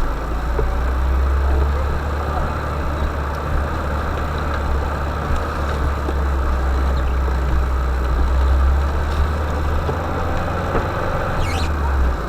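Motor vehicle engine running steadily, with a deep low drone.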